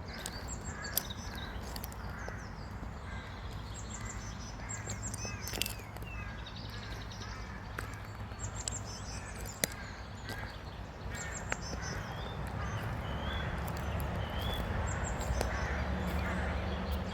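Footsteps crunching on slate gravel, with birds chirping and calling. A low traffic rumble underneath grows louder near the end.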